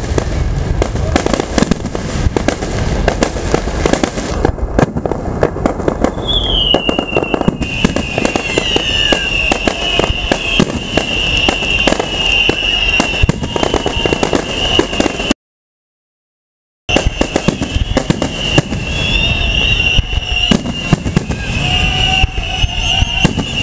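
An aerial fireworks display with shells bursting in rapid succession: many sharp bangs and crackles. From about a quarter of the way in, a steady high whine runs under the bangs. The sound cuts out completely for about a second and a half just past the middle.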